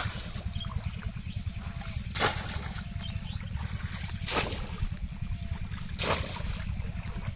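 A polo fishing basket being plunged into shallow floodwater, making a splash about every two seconds, four in all. A steady low rumble runs underneath.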